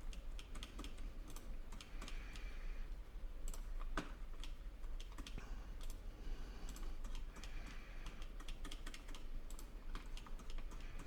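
Irregular clicking of a computer mouse and keyboard, many quick clicks in a row, over a low steady hum.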